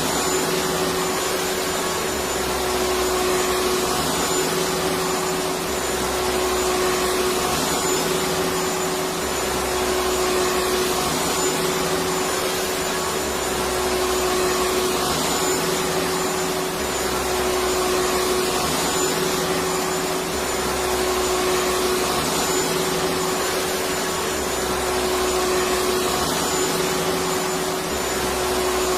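Electric vacuum cleaner running steadily: a continuous motor hum and airflow noise, with a low rumble that swells and fades about every two seconds.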